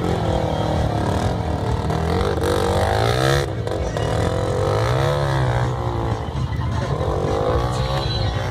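Several motorcycle engines revving together, their pitches rising and falling over one another, with one rev climbing to a peak about three seconds in and dropping off sharply.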